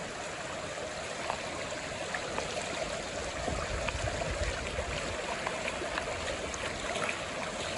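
Floodwater flowing steadily with a current, a continuous rush with small splashes and drips scattered through it.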